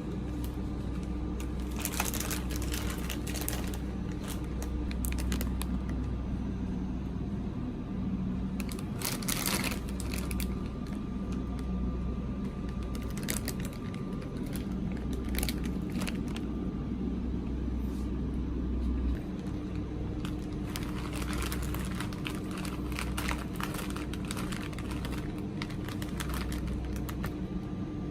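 Plastic snack packaging being handled, crinkling and tearing in irregular clusters over a steady low hum.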